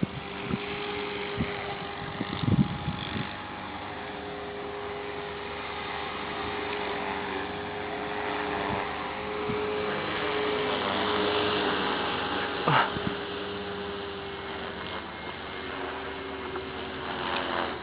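Align T-Rex 450 v2 electric RC helicopter in flight: a steady whirring hum from its motor and rotors, its pitch wavering slightly. Two brief thumps stand out, about two and a half seconds in and again about thirteen seconds in.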